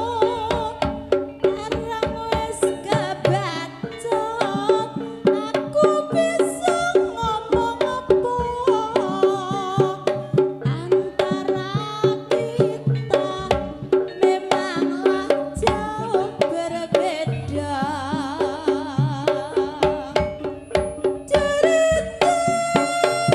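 Live Javanese traditional dance music: hand drums beat a quick, even rhythm under a wavering melody with heavy vibrato and steady ringing tones.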